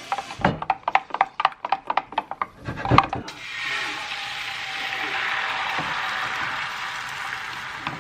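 Kitchen cooking sounds: a quick run of sharp, ringing taps for about three seconds, then a steady sizzling hiss.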